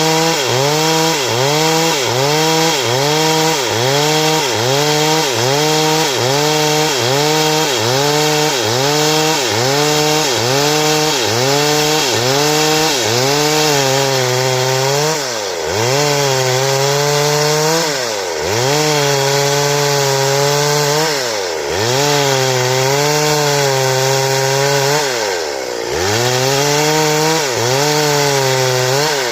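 Stihl chainsaw cutting boards, its two-stroke engine held at high speed with the pitch dipping and recovering about once a second. In the second half the dips become slower and deeper, every three seconds or so, and the engine drops away at the end.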